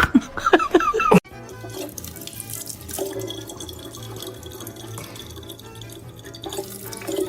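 A few short high-pitched vocal sounds, cut off about a second in, then water running steadily, as from a tap, with music underneath.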